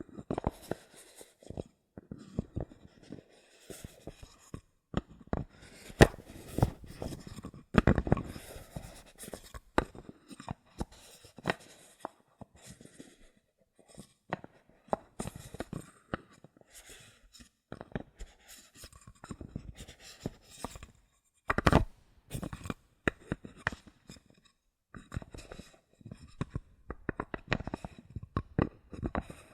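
Bottle caps handled close to the microphone for ASMR: an irregular run of sharp clicks and taps mixed with scratchy rubbing.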